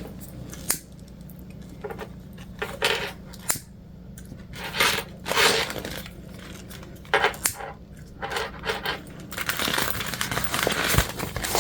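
Handling noise from a vinyl bag being worked at a sewing machine: a scattering of short, light clinks and taps, with a denser rustling in the last couple of seconds.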